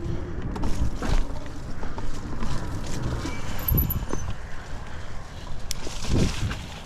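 Fifth Wheel Thunder 1FT folding e-bike ridden through thick mud: its tyres squelch and splash through the muck, and the bike gives scattered knocks and rattles over a steady low rumble of wind and riding noise.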